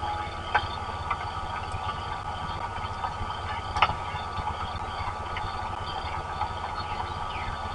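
Steady rain noise on an outdoor eagle-cam microphone: a low rumble with a couple of sharp drip-like clicks. A few short falling bird chirps sound faintly above it.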